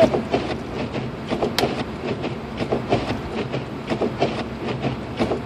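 Cabin noise of a 2006 Lexus IS250 AWD driving slowly on a snow-covered road in a blizzard: a steady low hum with many quick, irregular ticks and knocks.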